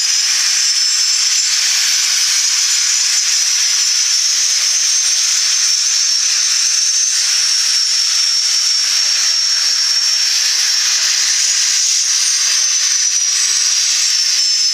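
Jet engines of the Patrouille de France's Alpha Jets, a steady loud hiss with a high-pitched turbine whine that sags slightly near the end.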